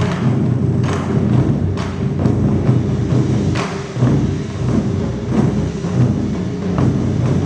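Taiko drum ensemble playing: a dense, rolling beat of deep drum strokes, cut through by sharp wooden clacks about once a second.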